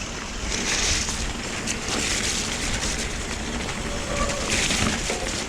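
Steady rushing noise of an electric mountain bike being ridden along a wet, muddy trail: tyres on wet ground and wind on the microphone, with hissy surges a few times.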